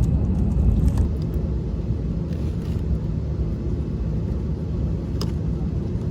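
Steady low rumble of a vehicle in motion, with a couple of faint clicks.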